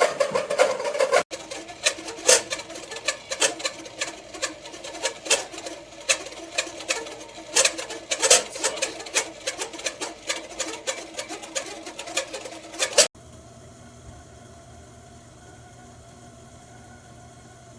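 Stainless steel stovetop kettle heating on the stove, with rapid, irregular clicking and rattling for about twelve seconds. It cuts off suddenly and is followed by a steady low hum.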